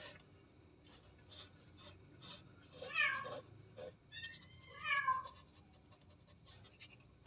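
Domestic cat meowing twice, about two seconds apart, the second call longer.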